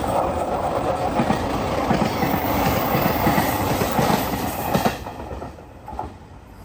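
Train running past at the platform, its wheels clattering rapidly over the rails; the sound drops away sharply about five seconds in as the train clears.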